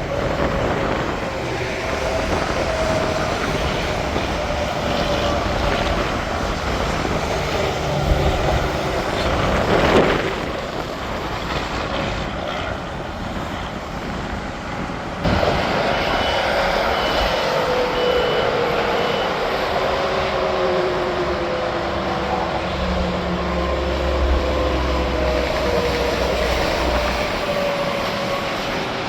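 Interstate highway traffic: tyre and engine noise of trucks and cars going by, with one passing close about ten seconds in and the noise jumping louder about halfway through.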